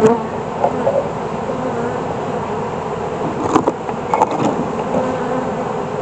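Steady hum of many honeybees flying around a just-closed hive, with a few short clicks and knocks about three and a half and four seconds in.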